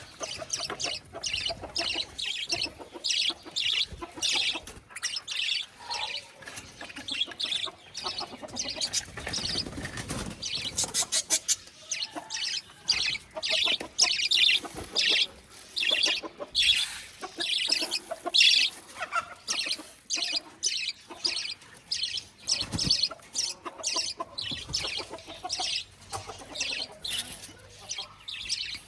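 Caged parrots flapping their wings and calling in rapid short chirps, over and over, as they wait to be fed.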